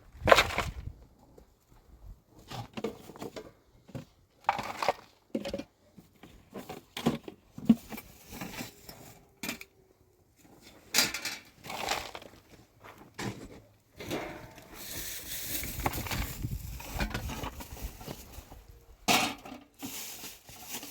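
Irregular knocks and clatters of things being handled, with a longer stretch of scraping or rustling noise in the second half.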